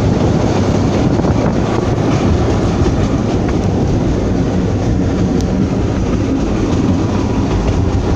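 Narrow-gauge passenger train running on the Septemvri–Dobrinishte line: a steady noise of wheels on the rails with a light clickety-clack.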